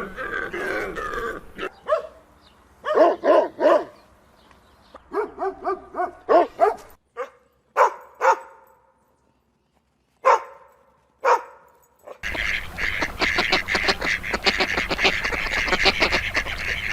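A dog barking and yipping in short bouts with pauses between them. Later a dense, rapid chatter of a different sound takes over.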